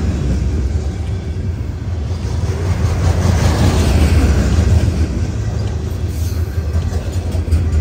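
Loaded Herzog ballast hopper cars rolling past close by: a steady heavy rumble of steel wheels on the rails, with a few light clicks near the end.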